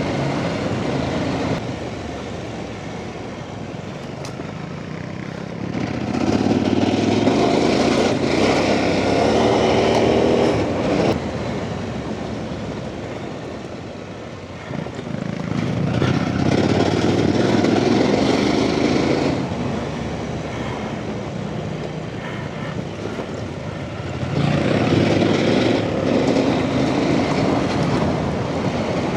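Off-road motorcycle engine running under the rider, opening up on the throttle three times for a few seconds each and easing back in between.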